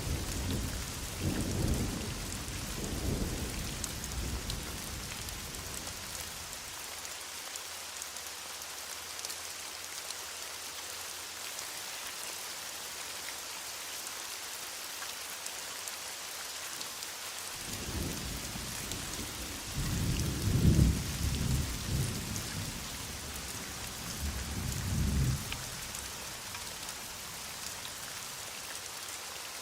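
Steady heavy rain with rolling thunder: a rumble fades over the first few seconds, and a second, louder peal builds up a little past the middle, peaks, then dies away, leaving only the rain near the end.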